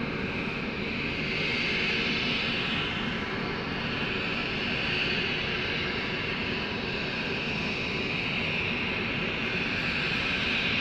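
Continuous jet-like roar from the refinery's sulfur unit after the explosion, with a hissing edge that slowly swells and fades. No separate blast is heard.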